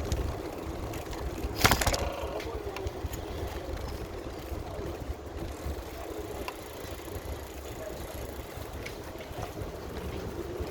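Riding noise while cycling: a steady low rumble of wind on the microphone and rolling noise, with one sharp knock about two seconds in.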